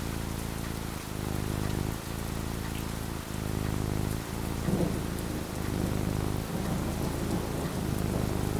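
Steady rain falling, with a low thunder rumble that swells loudest about halfway through.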